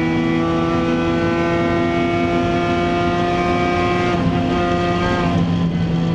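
BMW Z4 M Coupé's 3.2-litre S54 straight-six heard from inside the cabin at speed, its note falling slowly as the car slows. About four seconds in the note breaks up and shifts, then settles to a steady pitch near the end.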